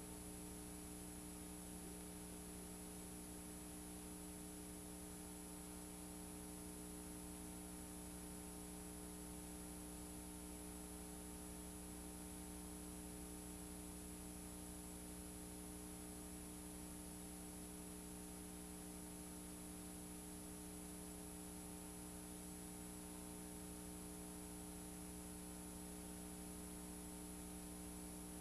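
Steady electrical hum with an even hiss from VHS tape playback, unchanging throughout: the blank run-out of the tape after the programme has ended.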